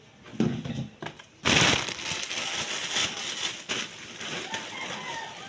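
Sizzling in a frying pan of hot oil. It bursts in loudly about a second and a half in, as food goes into the pan, then settles into steady frying crackle.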